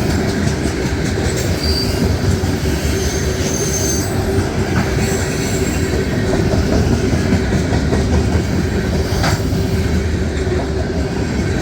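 Freight train cars, mostly tank cars and hoppers, rolling past: a steady rumble of steel wheels on rail with a constant whining tone, and a few short high wheel squeals a couple of seconds in.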